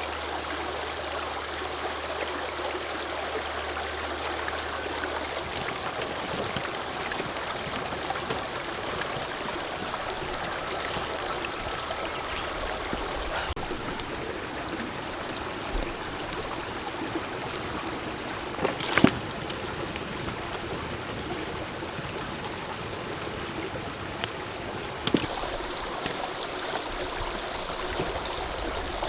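Mountain stream running steadily, with a few sharp knocks, the loudest about two-thirds of the way through.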